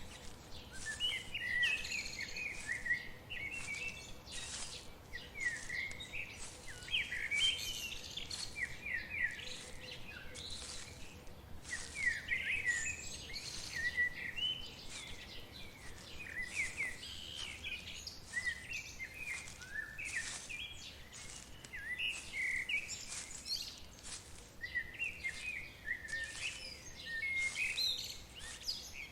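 Songbirds chirping and twittering in quick, short calls all through, several overlapping, over a faint steady background hiss.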